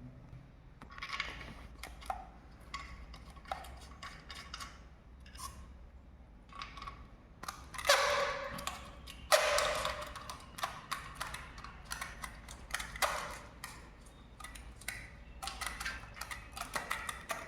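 Scattered clicks and knocks of small hard parts being handled, with two louder clatters about eight and nine and a half seconds in, over a faint steady low hum.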